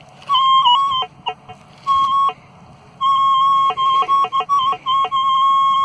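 Minelab CTX-3030 metal detector giving a repeated high, clear tone as the coil is swept over a dug hole, with brief low blips where the tone breaks. The high tone is the signal of a second coin target still in the hole.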